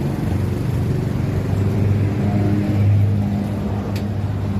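An engine running steadily with a low hum, swelling a little about three seconds in.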